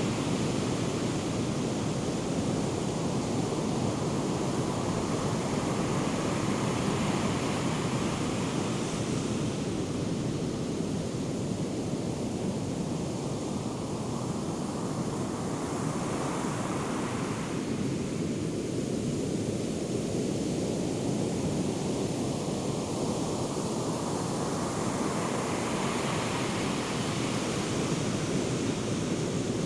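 Ocean surf from a hurricane swell: a continuous rush of breaking waves, the hiss rising and falling as sets break and wash in, roughly every seven to ten seconds.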